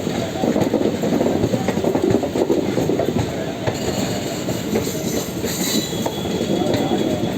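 Train running along the track: a steady rumble of wheels with rapid clatter over the rails, and a faint high wheel squeal about five to six seconds in.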